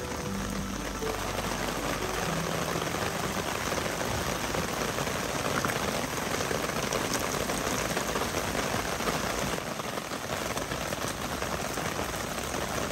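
Steady rain falling, pattering on wet ground and a wooden deck.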